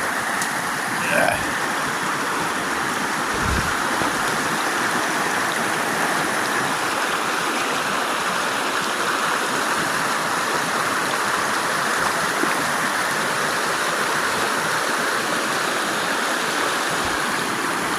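Flowing river water rushing steadily, an even, unbroken wash of sound.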